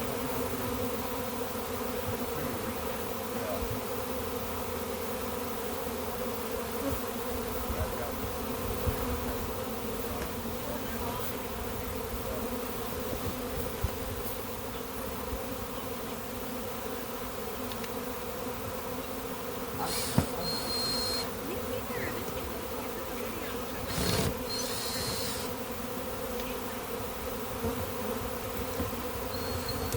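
A big honey bee swarm buzzing, a steady dense hum. Two brief scratchy noises cut in about two-thirds of the way through.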